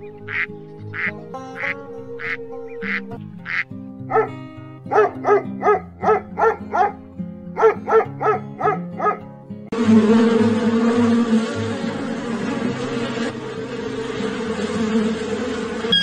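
Ducks quacking: short calls repeated about every half second, then quick runs of quacks, over background music. From about ten seconds in, a denser, noisy sound with a steady low hum takes over.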